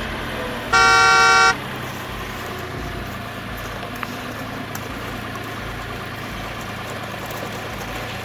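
A single electronic-sounding horn toot lasting under a second, loud and steady in pitch, over a steady low hum.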